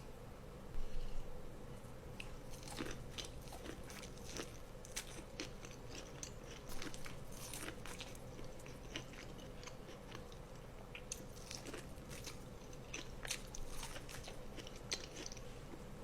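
A person biting and chewing crunchy food close to the microphone: many sharp crunches throughout, the loudest bite about a second in, over a faint steady hum.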